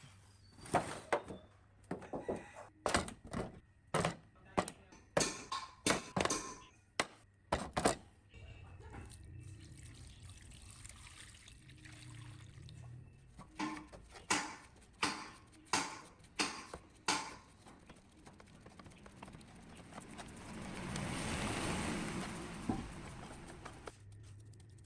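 A series of sharp knocks and taps in two quick runs, then a few seconds of hissing, pouring-like noise near the end.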